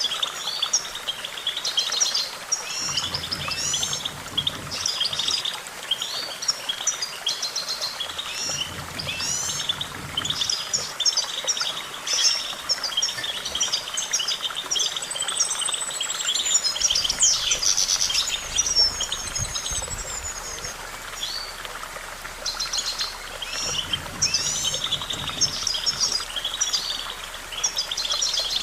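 European goldfinch singing a long, rapid twittering song of quick chirps and trills, with a short pause about three-quarters of the way through.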